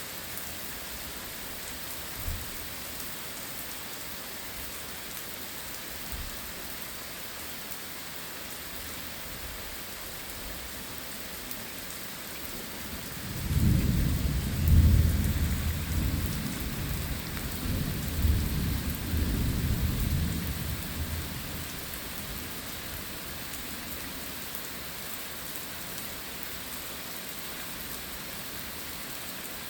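Steady heavy rain, with a low rolling rumble of thunder about halfway through that lasts around eight seconds and swells twice before fading.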